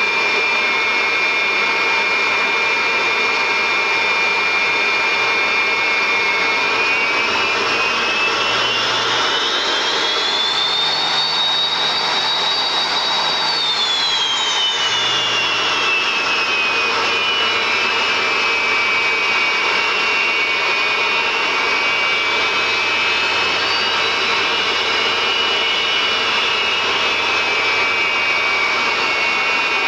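Jet engine whine from Aermacchi MB-339 jets over steady jet noise. The whine rises in pitch about seven seconds in, holds high for several seconds, then falls back around fifteen seconds in, as the engines are throttled up and back down.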